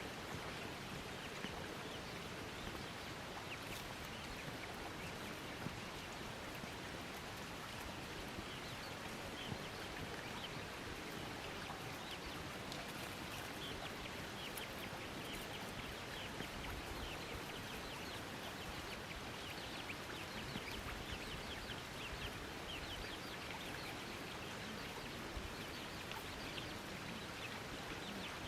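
Many faint, short, high chirps of small birds over a steady outdoor hiss.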